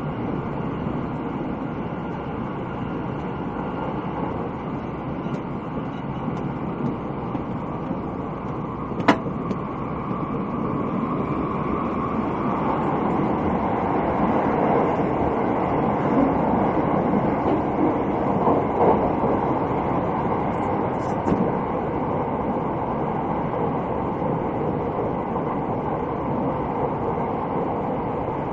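Steady running noise of the Thunderbird limited express electric train heard inside the passenger cabin, growing a little louder about ten seconds in. A single sharp click about nine seconds in.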